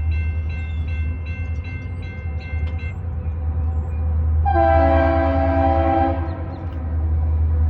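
EMD SD40-2 diesel locomotive's engine rumbling steadily under load, with faint regular ticking in the first few seconds. About four and a half seconds in, its multi-chime air horn sounds once for under two seconds.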